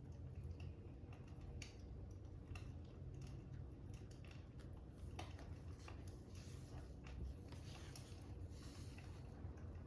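Faint fire crackling: irregular small pops and snaps over a low steady rumble.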